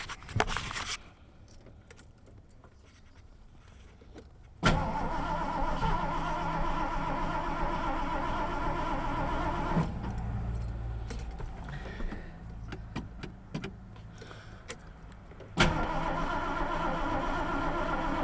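Ford 302 V8 being cranked over by its starter in hard cold, twice: a run of about five seconds about four and a half seconds in, then another near the end. It cranks without catching, which the owner puts down to a wet or flooded engine.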